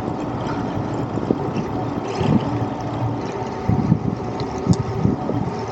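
Wind buffeting the microphone of a camera on a moving road bike: a steady low rushing noise with a few light ticks.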